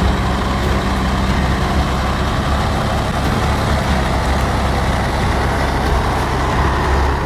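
Heavy truck engine running loud and steady, a deep even rumble with a broad roar over it.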